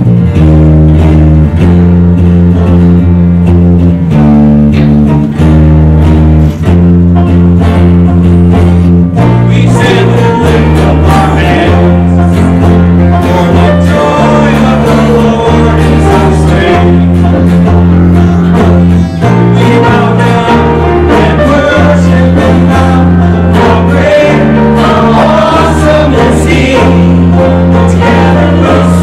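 A church worship band playing a song, with bass notes changing every second or two. Voices sing over it from about ten seconds in.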